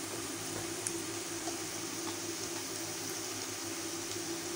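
Tomato masala frying gently in oil in a wok: a steady soft sizzle with a few faint crackles, over a constant low hum.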